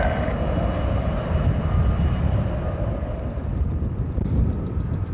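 Jet airliner's engine noise: a steady deep rumble with a faint whine on top that fades away over the first few seconds.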